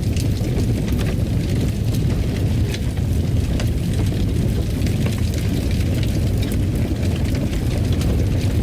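Fire burning in a fireplace: a steady low rumble with scattered crackles and pops coming at irregular moments.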